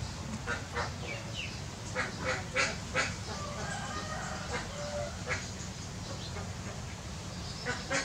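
Birds calling in short, separate squawks, a cluster of them two to three seconds in and a couple more near the end, over a steady low rumble.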